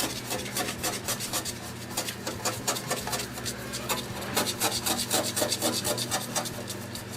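A hand scraper scraping a surface in quick, repeated rasping strokes.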